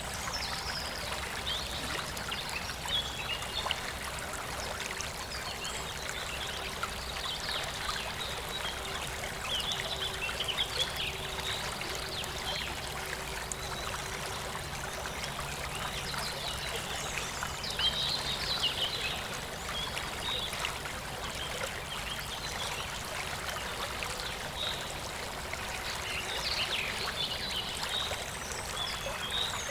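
Small rural river flowing steadily over stones, a continuous trickling and babbling of water, with brief higher-pitched flurries every few seconds.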